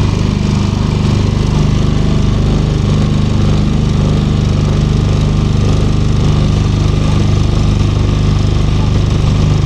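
Small boat engine running steadily at a constant speed, a continuous low hum.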